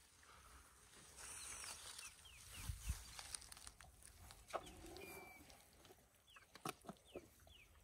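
Quiet bush sound: short, high, falling bird chirps scattered throughout, a few dry crackles of grass close by where elephants stand grazing, and a brief low thump about three seconds in.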